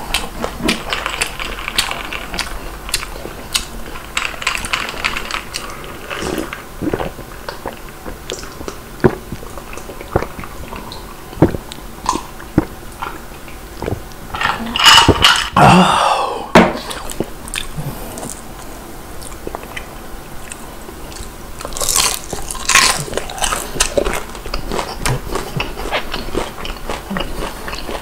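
Close-miked chewing and crunching of crispy fried chicken, with many small crackles and wet mouth sounds. About halfway through come several loud gulps of beer swallowed from a glass.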